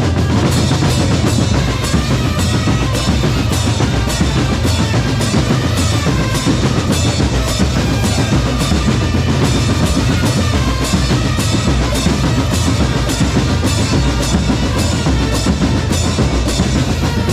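Percussion corps playing a steady marching beat on bass and snare drums, about two strokes a second.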